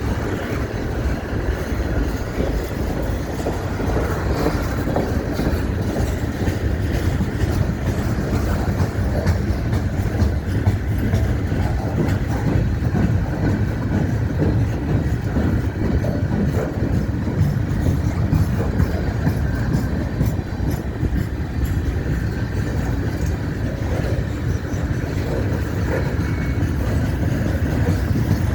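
Freight cars of a CN train rolling past on steel wheels, a steady low rumble from the wheels on the rails.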